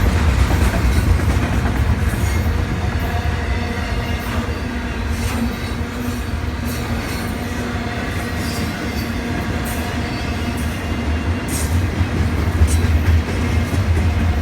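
Intermodal freight train's cars rolling past at speed: a steady heavy rumble of wheels on rail with scattered sharp clicks from the wheels crossing joints.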